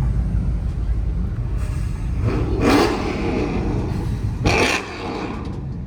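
Car engine rumbling at a car meet and being revved, with a louder swell a couple of seconds in and another brief one about three-quarters of the way through.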